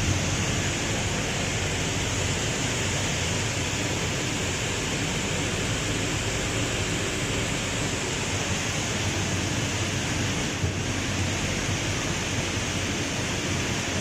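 Clean-room air shower running its blowing cycle: a steady, loud rush of air from the nozzles over the low hum of the blower fan.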